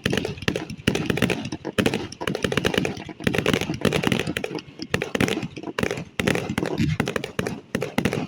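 Fireworks crackling and popping in quick succession: a dense run of sharp cracks, several a second.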